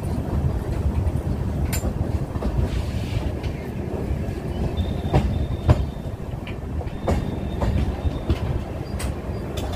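Passenger train rolling slowly out of a station: a steady low rumble with irregular sharp clacks of the wheels over rail joints and two brief high-pitched wheel squeals about halfway through.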